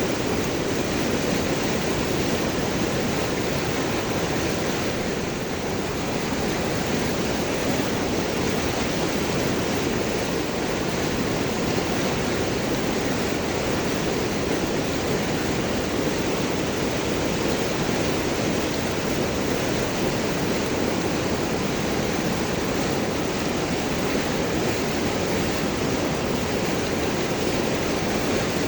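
River water rushing and gurgling over and around large rocks, a steady dense rush that keeps an even level throughout.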